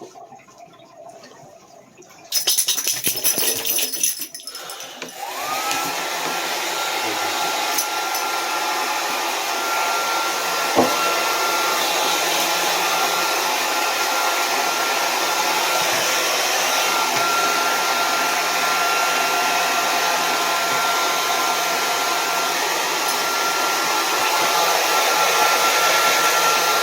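A blow dryer drying a wet dog's coat: after a short noisy burst about two seconds in, the motor spins up with a rising whine and then runs steadily with a loud rush of air.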